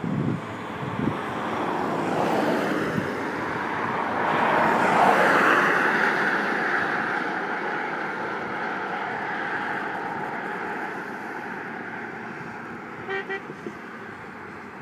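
A vehicle passing by: a rushing noise that builds to a peak about five seconds in, then fades away slowly. Near the end there are two short horn toots.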